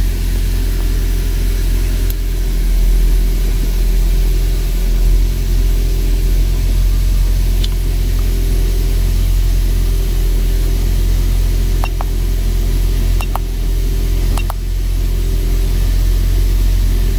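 2007 Toyota Prius's 1.5-litre four-cylinder engine idling steadily, heard from inside the cabin, with a few faint clicks in the later part.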